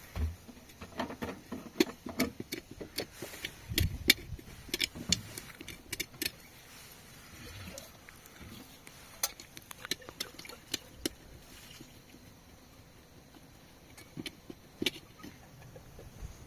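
Irregular sharp clicks and knocks, several a second at times, with a few low thumps: objects being handled and knocked together.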